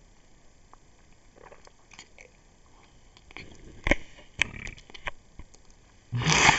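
Scattered soft clicks and a couple of sharp knocks, then a loud voice-like sound rising in pitch near the end.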